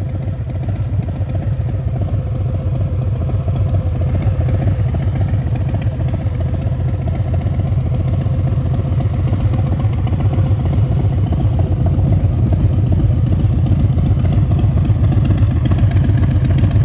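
Harley-Davidson Breakout 114's Milwaukee-Eight 114 V-twin engine idling with a steady, fast low pulse, growing slightly louder over the span.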